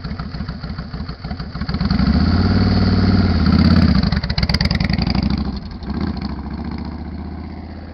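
Motorcycle engine running, then given more gas about two seconds in as the bike pulls away; it is loudest a little past the middle, then drops off and fades steadily toward the end.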